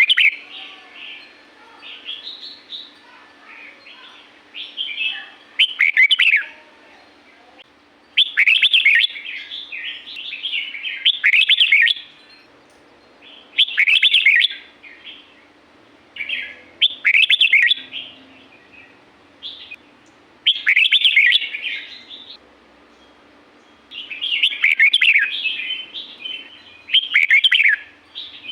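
Red-whiskered bulbul singing: short, loud, warbling phrases repeated every two to three seconds, with fainter phrases in between.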